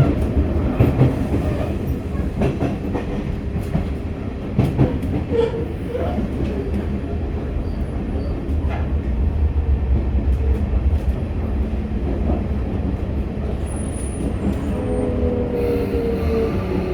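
Sotetsu electric commuter train heard from inside the car: a steady rumble of wheels on rail with scattered clicks from rail joints. About fifteen seconds in, a falling electric whine sets in from the traction motors as the train brakes for the next station.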